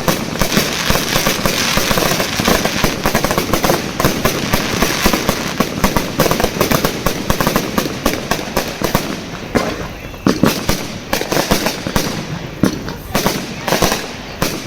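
Fireworks going off in a dense barrage of rapid bangs and crackles, thinning to separate bangs after about ten seconds.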